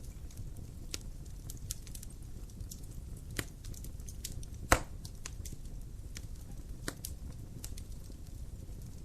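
Wood fire crackling in a fireplace: scattered sharp pops and snaps over a steady low rumble of the flames, with one much louder pop a little past the middle.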